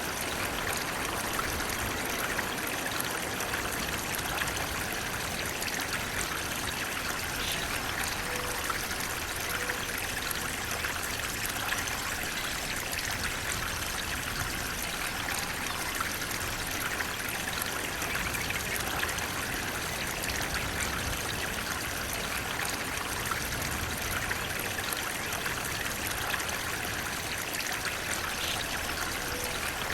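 Flowing water running steadily, an even rushing hiss with no breaks.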